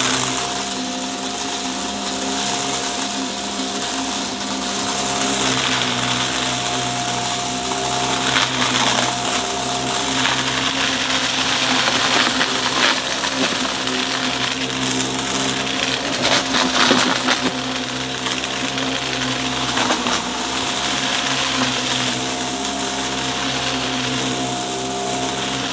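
Upright vacuum cleaner running with a steady motor hum, crunching and crackling continuously as it picks up dry debris.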